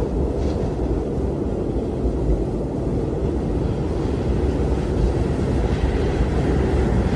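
Blizzard wind: a steady low rumble of storm wind, with a brighter hissing gust building near the end.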